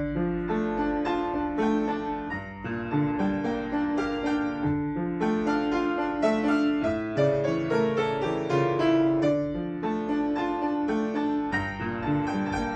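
Solo piano playing a flowing melody over a steadily repeating lower accompaniment, with a louder passage starting right at the beginning.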